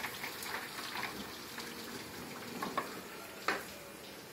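Rain falling steadily, with scattered sharp drips and taps, the loudest about three and a half seconds in.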